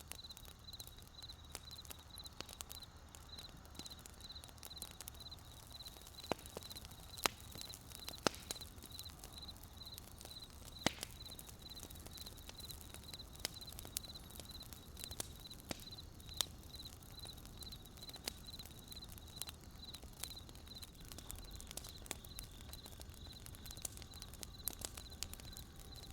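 Wood campfire crackling, with irregular sharp pops (a few louder ones near the middle), over a cricket chirping in a steady, even, high-pitched pulse.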